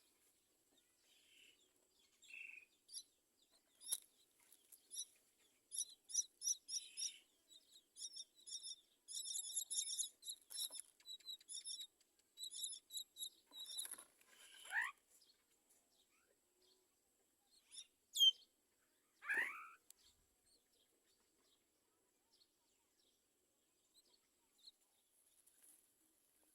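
Mynas at the nest chirping: runs of quick, very high chirps in the first half, then a few louder calls that fall in pitch.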